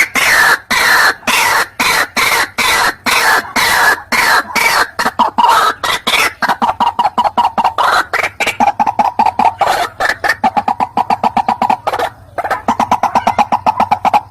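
Calls of the white-breasted waterhen (ruak-ruak): a fast, loud run of repeated clucking notes, several a second, with a short break about twelve seconds in.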